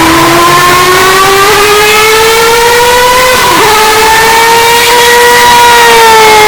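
Hyundai Elantra N's turbocharged four-cylinder engine under acceleration: the engine note climbs steadily, dips briefly about three and a half seconds in, then holds and eases slightly lower near the end. The audio is boosted to extreme loudness.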